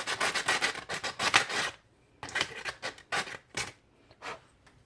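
Sandpaper rubbing quickly back and forth on a small piece of a die-cast Goatguns SVD miniature model, then about six slower separate strokes with short pauses between them.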